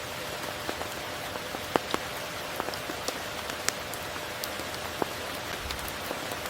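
Steady rain falling in a dense hiss, with scattered sharp taps of single drops landing close by, a few of them standing out.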